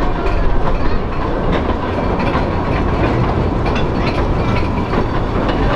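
Narrow gauge train carriage running along the track, heard from on board: a steady rumble of wheels on rails with scattered clicks and rattles.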